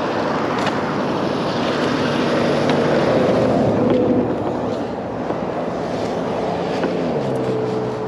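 A motor vehicle's engine running, with road and wind noise, its pitch dropping near the end.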